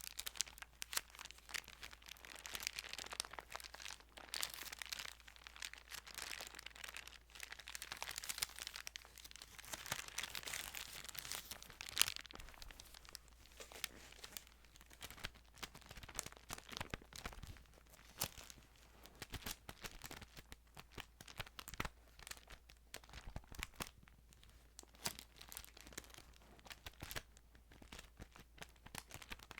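Thin Bible pages being handled close to the microphone: continuous soft paper rustling and crinkling, dotted with many small sharp clicks and taps.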